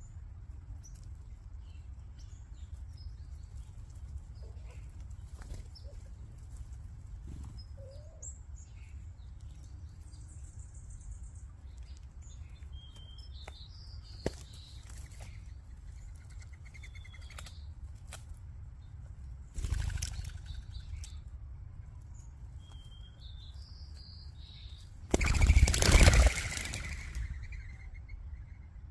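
Small songbirds chirping at a backyard feeding spot, with the wing flutter of birds taking off in a rush: briefly about 20 seconds in, and loudest for about two seconds near the end.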